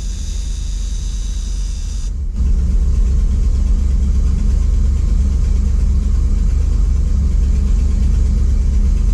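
Ford F700 truck's 370 V8 idling on half choke while it warms up, not yet running smoothly. It is a steady low drone that becomes noticeably louder about two seconds in.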